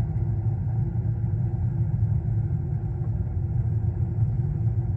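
High-efficiency natural gas furnace running with its burner flames lit: a steady low rumble.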